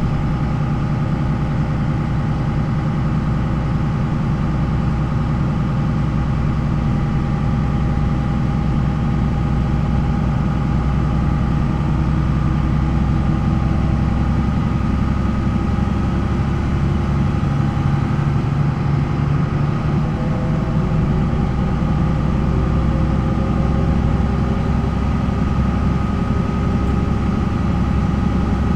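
MAN NL 263 bus's D28 diesel engine running steadily, its pitch shifting slightly about two-thirds of the way through.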